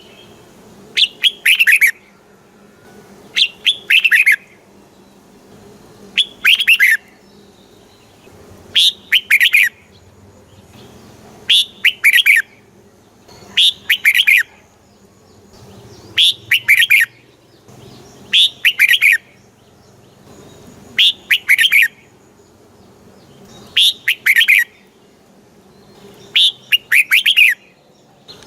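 Red-whiskered bulbul singing the same short phrase over and over, about every two and a half seconds. Each phrase is a quick run of notes that falls in pitch.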